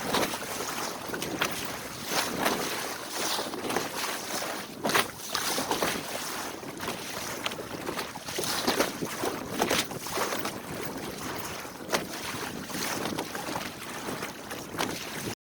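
Water splashing and slapping against the hull of a 14-foot motor/sailor under way, in short irregular splashes over a steady rush of water, with wind on the microphone.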